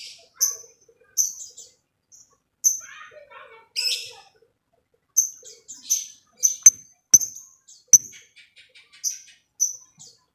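Lovebird calling with short, sharp, high chirps about once a second. Near the middle come a few sharp clicks, then a quick run of soft ticking notes.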